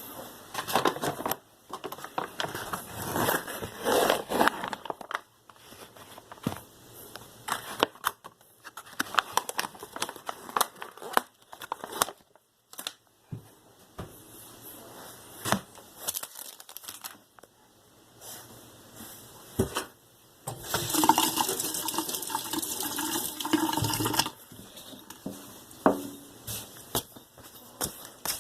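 Kitchen handling noises, with scattered clicks, knocks and rustling, and water running or being poured into a container for about three seconds a little past the middle.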